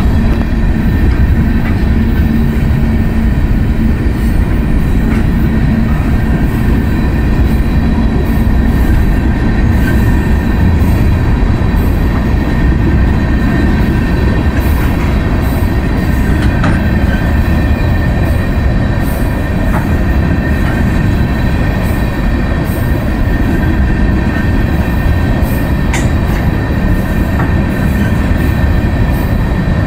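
Freight train of tank cars rolling past at close range: a loud, steady rumble of steel wheels on the rails. Thin, steady high-pitched squealing tones from the wheels ride over it.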